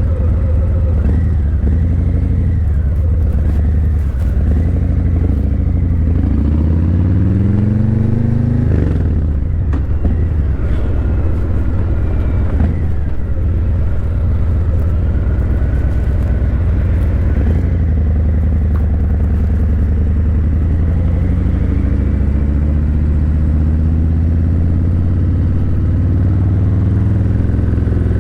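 Harley-Davidson Breakout 117's Milwaukee-Eight 117 V-twin running through Vance & Hines Eliminator 300 slip-on mufflers while riding, a deep low rumble throughout. The pitch rises as it accelerates through the gears about six seconds in and again over the last several seconds, with a short drop near nine seconds where it shifts.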